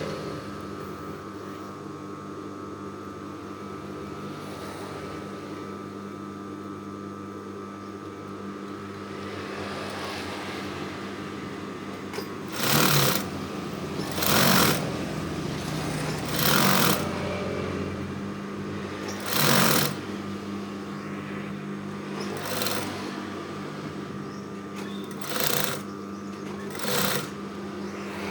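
Sewing machine stitching in short runs, about seven bursts of half a second to a second each, starting about 13 seconds in, over a steady background hum.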